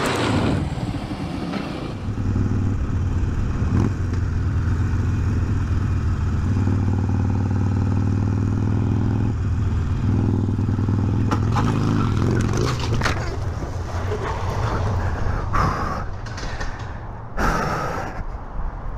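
Motorcycle engine running steadily at a low, even pitch. In the last third there are several sharp knocks and scraping clatter, the loudest near the end.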